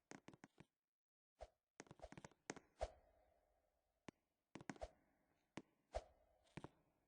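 Near silence broken by faint, scattered knocks and taps coming in small clusters, some with a short ringing tail.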